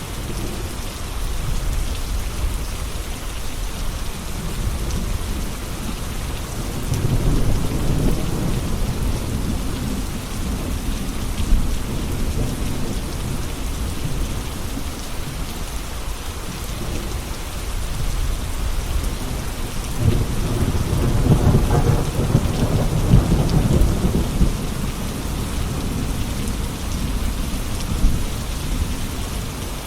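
Steady heavy rain falling, with low rumbles of thunder rolling in twice, about seven seconds in and again about twenty seconds in.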